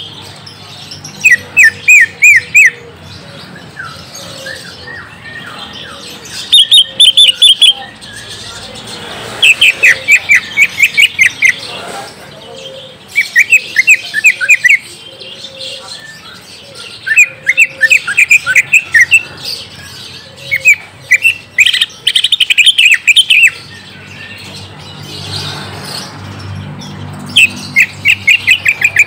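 Cucak ijo (green leafbird) singing in repeated bursts of quick, high chirping notes, each phrase lasting a second or two and coming every few seconds.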